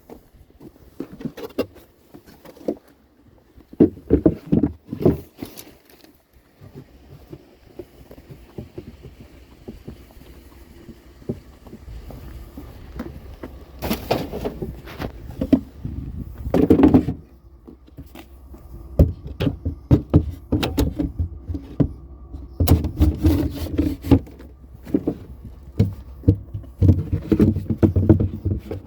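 Irregular knocks, bangs and clattering of hard objects being handled and moved, in bursts over a low rumble.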